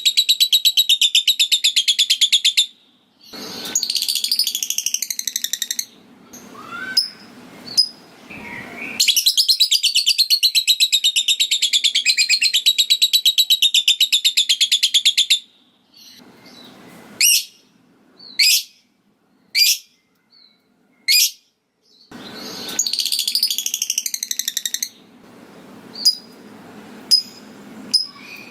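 Lovebird singing its long 'ngekek': rapid, evenly pulsed high chattering trills of several seconds, three times. Between them come short single sharp ticking chirps, the 'ngetik' calls, about one a second.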